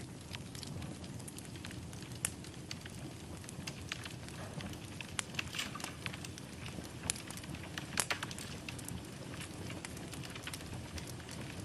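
Wood fire burning in a fireplace: a steady low rumble of flames with irregular crackles and pops, the loudest pop about eight seconds in.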